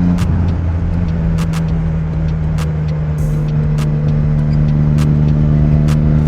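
Motorcycle engine running steadily while riding, heard from the bike: its note drops a little at the start as the throttle eases, then holds steady. Scattered sharp clicks sound over it.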